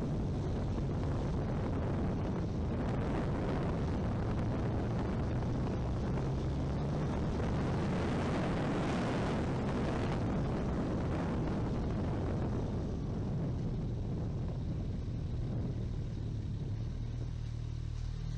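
Motorcycle riding heard from a helmet-mounted camera: heavy wind rush over the microphone over a steady engine drone. The wind rush eases off in the last few seconds while the engine note carries on.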